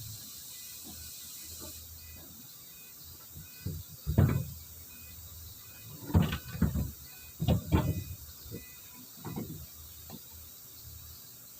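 A series of sharp knocks and clunks, most of them bunched in the middle, from tools and parts being handled on a car. Under them a faint high beep repeats about once a second.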